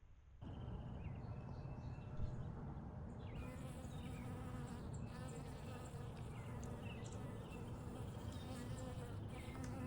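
A flying insect buzzing close to the microphone: a steady, pitched hum that starts suddenly about half a second in, with short high chirps above it.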